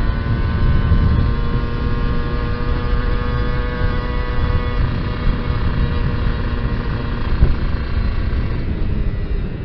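Kawasaki Ninja R's 150 cc two-stroke single running under way at fairly steady revs, heard through heavy wind rush on the microphone; the engine note eases off near the end.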